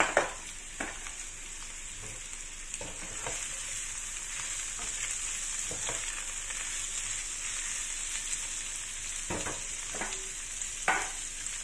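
Sliced bitter gourd sizzling steadily in hot oil in a nonstick frying pan, with a few knocks of a plastic slotted spatula against the pan as it is stirred.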